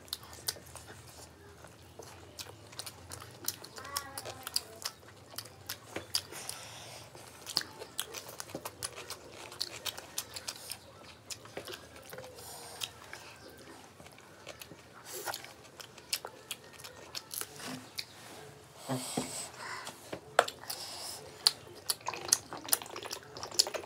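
People chewing and biting fried rice and chilli chicken eaten by hand, with many short, irregular clicks of mouths and fingers.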